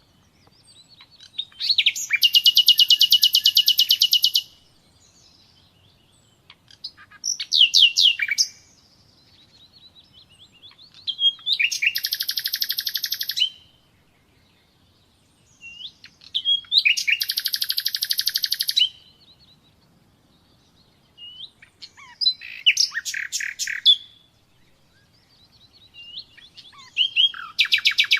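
Common nightingale singing: about six song phrases, each a burst of rapidly repeated notes and fast trills lasting one to three seconds, separated by short pauses.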